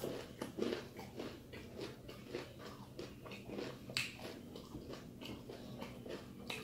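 Close-up chewing of crispy fried chicken skin: irregular crunches and wet mouth sounds, with sharper crunches about half a second and four seconds in.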